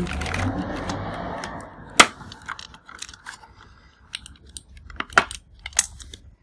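Earphone box and its contents being handled: a rustle for the first second or so, then a sharp click about two seconds in, followed by scattered light clicks and taps.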